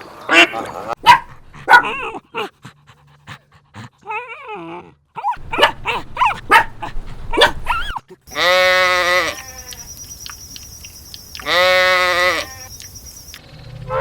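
Farm animals calling: a quick run of short calls in the first couple of seconds and again around the middle, then two long bleats, one about eight seconds in and one about eleven and a half seconds in.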